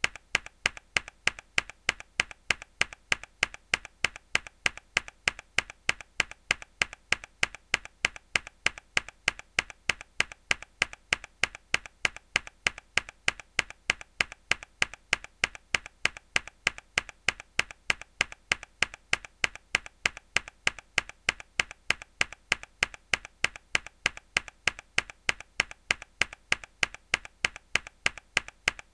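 A single key on a mechanical keyboard pressed hard over and over in an even loop, about four sharp clicks a second.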